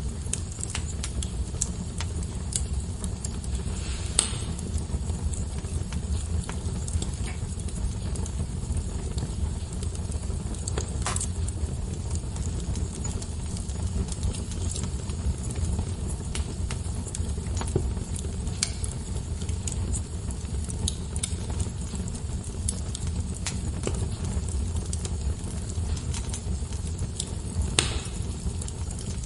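Fire burning in a fireplace: a steady low rumble with scattered sharp crackles and pops, the loudest about four seconds in, about eleven seconds in, and near the end.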